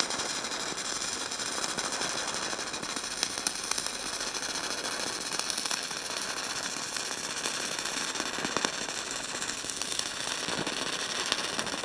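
Stick (MMA) arc welding at about 100 amps: a steady frying crackle from the arc with scattered sharp pops as a bead is laid along a steel bucket edge, cutting off abruptly at the end as the arc is broken.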